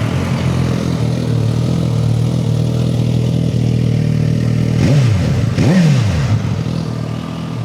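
2018 Suzuki GSX-S1000's inline-four engine idling steadily, revved twice in quick succession about five seconds in, each rev rising and falling back to idle.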